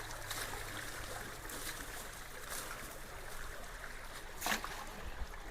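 Creek water running steadily at a culvert, with scattered small clicks and one sharper knock about four and a half seconds in.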